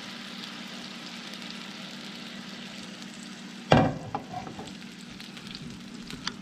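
Cicadas frying, a steady sizzle with fine crackling. About three and a half seconds in there is a loud knock, and a sharp click near the end.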